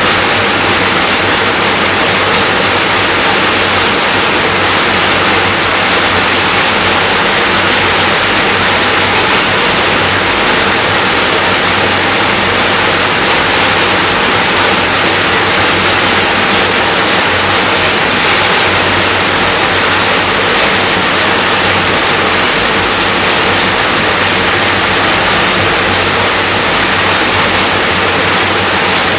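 Rain falling steadily, an even, unbroken hiss with no gaps or separate drops standing out.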